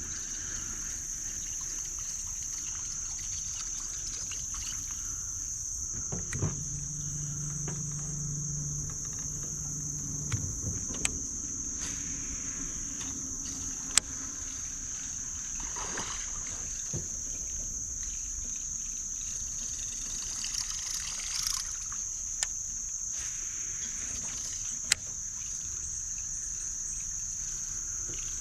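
Steady high-pitched drone of insects, a cricket chorus. A low hum joins for a few seconds about a quarter of the way in, and a few sharp knocks break through, the loudest near the middle and near the end.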